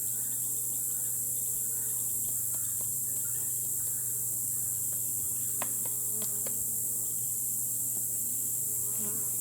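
Honeybees buzzing around an open hive, over a steady high-pitched hiss, with a few sharp clicks a little past halfway.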